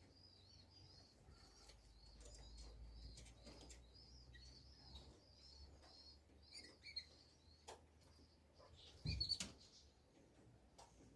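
Faint, quick, high chirps of a small songbird, repeated steadily for about seven seconds, then a single sharp knock about nine seconds in.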